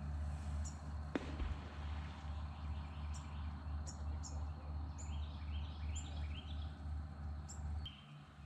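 Small birds chirping repeatedly, with a quick run of falling chirps in the middle, over a steady low rumble that fades near the end. One sharp click a little after a second in.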